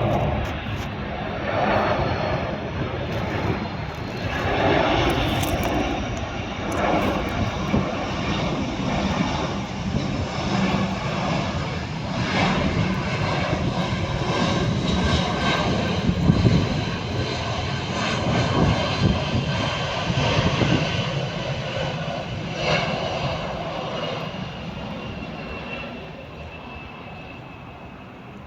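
Large fixed-wing aircraft flying over, its engines a steady, loud roar that fades away over the last few seconds.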